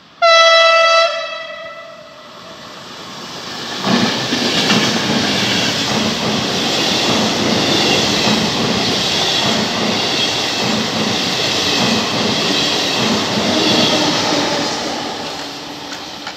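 A train horn sounds one loud blast about a second long. About four seconds in, an electric passenger train arrives and runs through the station without stopping, its wheels clattering in a steady beat over the rail joints. The noise fades near the end as the train moves away.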